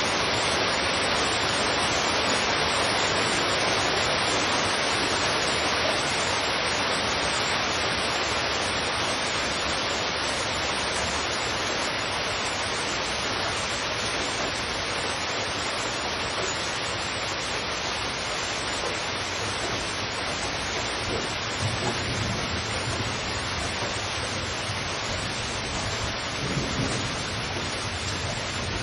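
Heavy rain pouring steadily, with thunder rumbling low in the last third.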